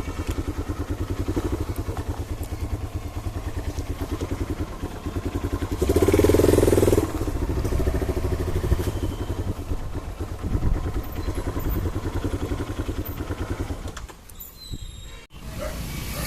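Motorcycle engine, a Karizma's single-cylinder, running at low speed with an even, rapid pulsing beat. It grows briefly louder about six seconds in and falls away near the end.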